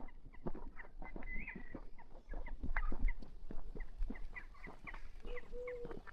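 Birds calling: many short, high chirps throughout, and a longer, lower held call near the end.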